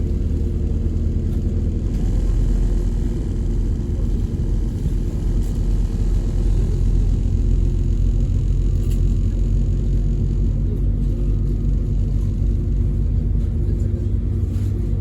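A vehicle running with a steady low engine rumble, unchanging throughout.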